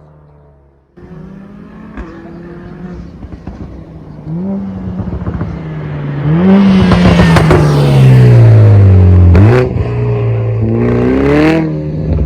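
Mercedes-AMG A45 S's turbocharged 2.0-litre four-cylinder through a Supersprint exhaust with a 100-cell downpipe. It idles quietly, then cuts in suddenly much louder about a second in, the revs climbing and falling several times. A few sharp cracks come as the revs drop.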